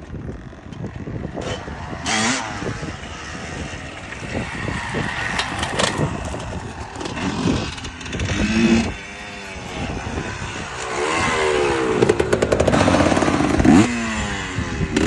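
Off-road enduro motorcycle engine revving up and down in repeated bursts, its pitch rising and falling, loudest near the end, with scattered clattering knocks.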